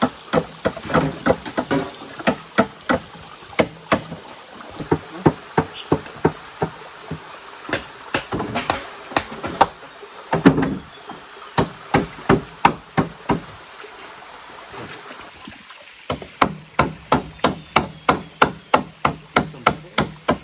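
Repeated blows of a tool striking wood, about two to three a second, with a brief pause about three-quarters of the way through, over a steady background hiss.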